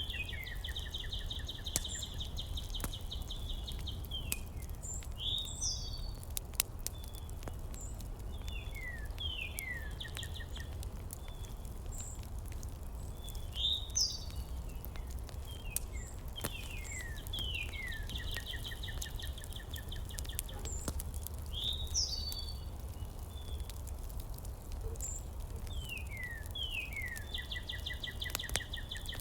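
A songbird singing the same phrase over and over every several seconds: a few quick notes sliding downward, then a rapid buzzy trill. Underneath runs a steady low rumble with scattered faint clicks.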